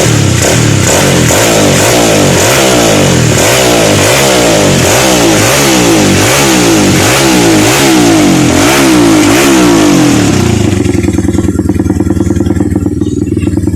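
Upgraded Honda XRM 125 motorcycle engine, fitted with a 4-valve big-valve head, 72 mm cylinder and 32 mm carburettor, revved over and over in quick throttle blips, each rising and dropping, about one and a half a second, for some ten seconds. It then settles to a steady idle.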